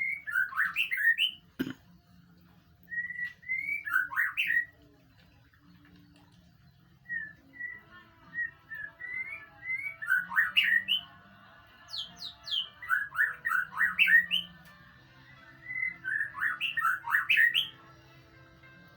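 White-rumped shama (murai batu) song: phrases of clear whistled notes running into fast chattering trills, repeated in about five bursts separated by short pauses. A single sharp click just under two seconds in, over a faint steady low hum.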